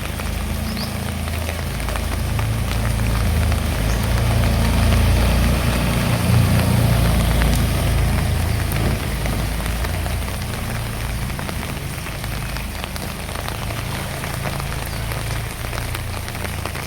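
Heavy rain falling in a steady hiss, with a low rumble that swells for a few seconds in the middle and then eases.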